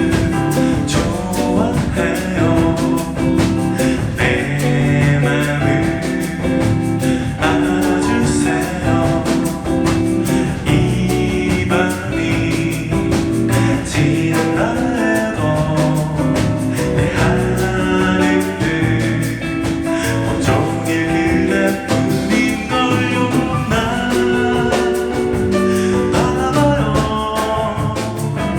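Live band music: guitar over a steady drum beat, with singing.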